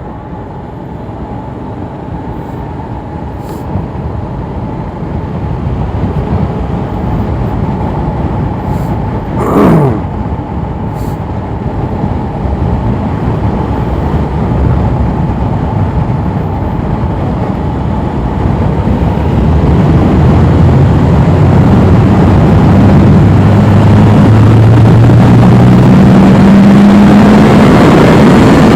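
A motorcycle under way, heard from the rider, with wind and engine noise building steadily as speed rises; in the second half the engine note climbs slowly. About ten seconds in, a brief loud whoosh falls quickly in pitch.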